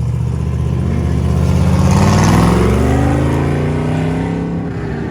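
A vehicle's engine driving past close by. Its note rises as it comes on, is loudest a little past two seconds in, then falls away as it passes.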